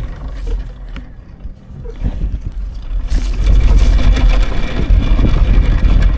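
Wind rumbling over the microphone during a ride on an electric dirt bike, with the rush of the moving bike; it gets louder about three seconds in.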